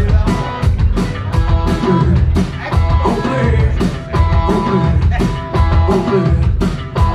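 Post-punk band playing live: electric guitar over a steady, evenly spaced drum-kit beat in an instrumental passage between sung lines.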